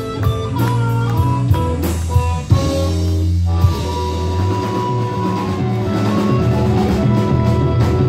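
Live blues-rock band playing an instrumental passage with no singing: drums, bass and guitar. The playing dips briefly about three and a half seconds in, then carries on.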